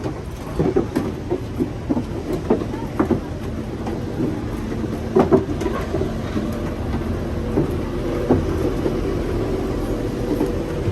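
Steady low rumble with irregular knocks and clunks, as people step aboard a tour boat.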